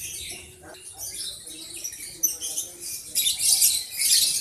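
Lovebirds chattering with rapid, high-pitched squeaks and shrill calls that overlap one another, getting louder near the end.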